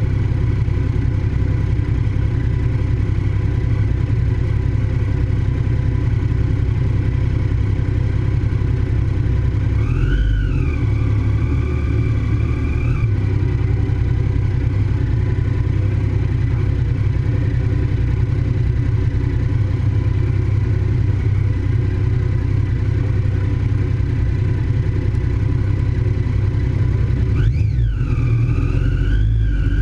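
A 2008 Triumph Daytona 675's inline three-cylinder engine runs hard at track speed over a heavy low rumble. The revs swing up and back down about ten seconds in and again near the end.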